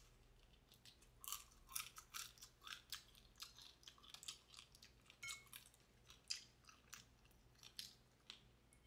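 A person chewing crispy fried garlic chicken close to the microphone, making irregular crunching and smacking clicks, a few a second.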